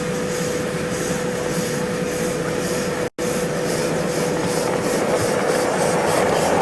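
Miniature live-steam railway train running, with a faint rhythmic hiss about three to four times a second that quickens after a brief dropout, over a steady hum.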